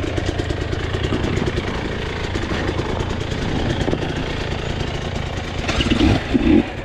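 Two-stroke enduro dirt bike engine running steadily at low revs, its rapid firing pulses even throughout. A few short, louder bursts come near the end.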